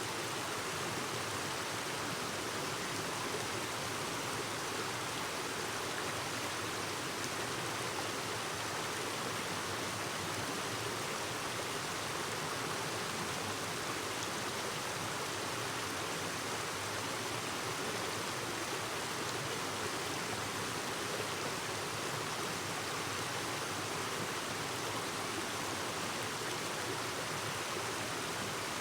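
A clear stream's water flowing and babbling, a steady, even rush with no break.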